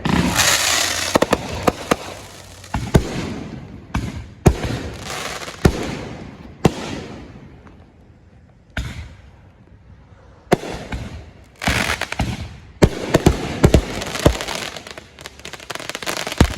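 Consumer firework cakes firing: sharp bangs of shells launching and bursting, some in quick runs, with hissing and crackle trailing after the bursts and a short lull in the middle.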